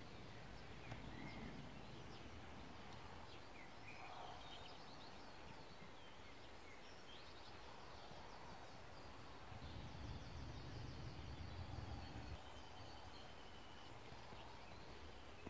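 Faint ambience with birds chirping and trilling now and then, and a low rumble from about ten to twelve seconds in.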